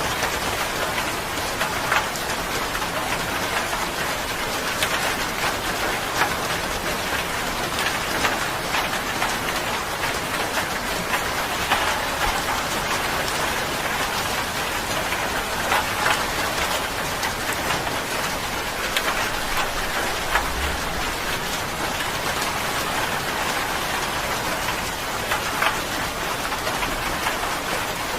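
Steady rain falling on a surface: a continuous hiss with scattered louder individual drops.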